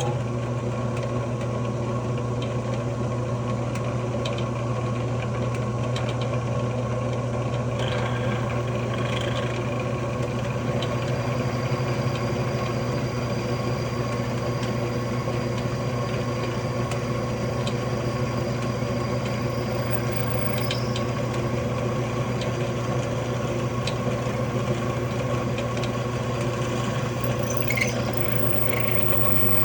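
Electric drilling machine running steadily under load, its motor holding an even hum while it cuts a hole into a solid aluminium hand wheel.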